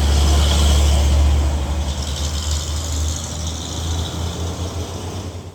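Heavy truck's diesel engine and tyres passing close by: a deep rumble with road noise over it, loudest in the first second and a half and then fading away.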